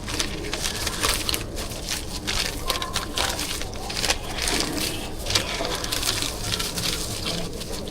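Irregular rustling and crackling, with many small clicks, like food wrapping or plastic being handled at close range.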